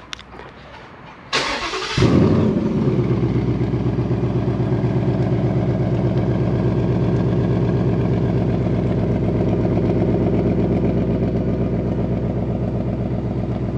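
Ford Mustang GT's 5.0-litre V8 remote-started: the starter cranks about a second in, the engine catches with a loud flare at about two seconds, then settles into a steady idle through the active valve exhaust.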